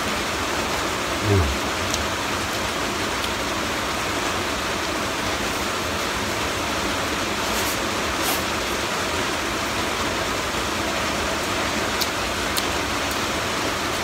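Heavy rain falling, a steady even hiss, with a few faint clicks over it.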